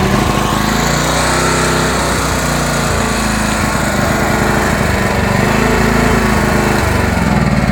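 Large portable engine-driven generator running just after being started, a loud steady engine drone whose pitch wavers slightly as it settles.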